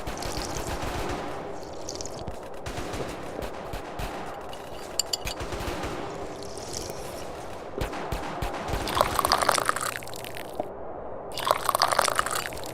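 Cartoon tea-sipping sound effect: wet slurps and sips of tea, repeated as a loop, with two louder, crackly slurps in the second half.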